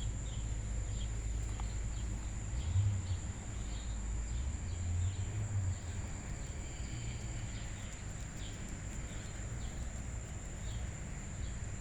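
Steady high-pitched insect drone with short repeated chirps over it, from a backyard insect chorus. A low rumble, most likely wind on the microphone, swells about three seconds in and fades by six seconds.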